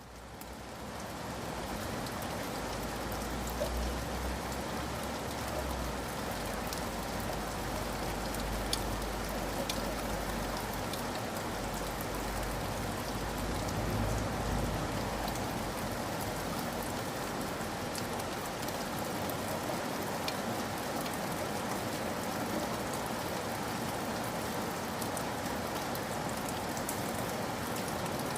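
Steady rain falling on a surface, with scattered individual drop taps; it fades in over the first second or so, and a low rumble runs underneath during the first half.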